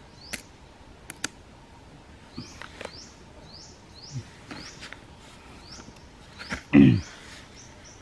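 A small bird repeating a short high chirp that rises and turns over, about twice a second. There are a few light clicks from PVC pipes being handled, and one loud, short, low sound about seven seconds in.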